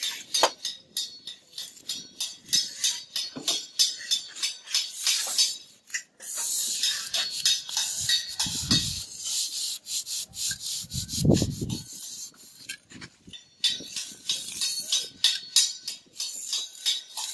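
Bricklaying work: a mason's trowel scraping mortar and tapping on bricks, a busy run of short scrapes and knocks with a longer scrape about six seconds in and two dull thuds later.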